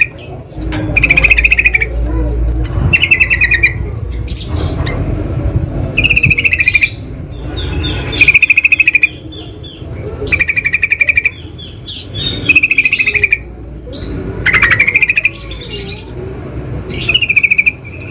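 Yellow-vented bulbul (trucukan) calling: a series of short, bubbling chattering phrases, about one every one and a half to two seconds, over a low background rumble.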